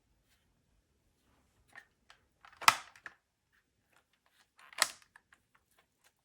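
Hard plastic parts being handled: two sharp clacks about two seconds apart, with lighter clicks and knocks around them.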